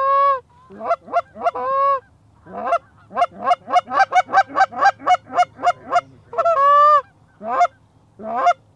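Goose call blown hard at close range: loud Canada goose honks and clucks, with a long drawn note at the start, a fast run of short clucks at about four or five a second in the middle, and another long moan near the end, calling circling geese back in.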